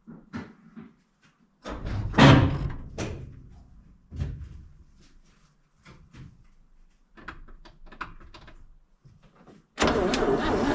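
A few clunks and knocks, the loudest about two seconds in, then near the end the starter begins cranking the Chevy Viking truck's engine over steadily, its valves freed after being stuck.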